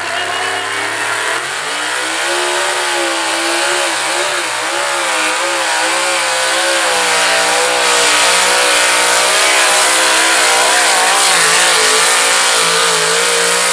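Dodge pickup's diesel engine at full throttle pulling the sled: the revs climb about two seconds in, then hold high with a wavering pitch, getting louder about halfway through.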